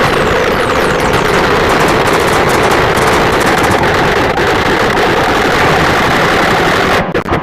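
Loud, dense harsh noise music: a constant wall of static-like noise with no clear tune or beat. Near the end it cuts off abruptly into a fast run of even pulses.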